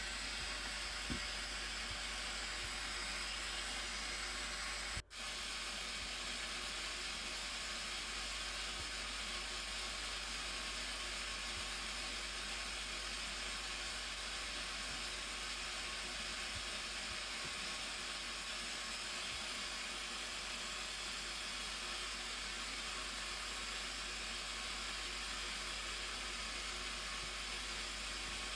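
Steady rush of falling water from the Blue Nile Falls, with the sound dropping out for an instant about five seconds in.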